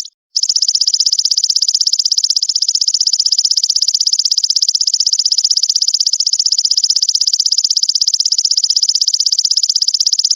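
Recorded buzzing call of a brem cicada: a high-pitched, rapid, evenly pulsed buzz that runs unbroken apart from a brief gap right at the start. This is the 'full brem' insect sound used as masteran material for training songbirds.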